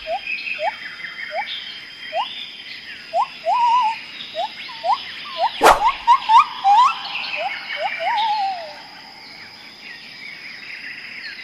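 Birds calling: a run of short, rising whistled notes with busier high chirps above them, and a single sharp click about six seconds in.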